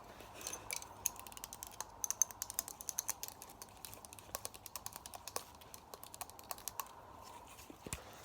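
Rapid, close-miked clicking and tapping, many small sharp clicks a second, thinning out after about seven seconds.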